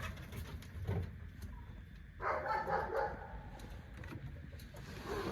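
A single short animal call, lasting under a second, about two seconds in.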